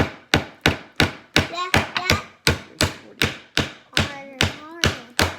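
Hammer driving a nail into a wooden kit piece, struck steadily about three times a second.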